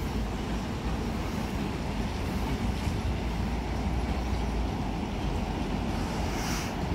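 Electric commuter train rolling slowly past on a far track: a steady low rumble of wheels on rails, with a brief hiss near the end.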